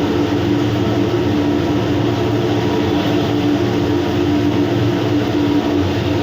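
Steady, loud machinery drone with a constant low hum, unchanging throughout.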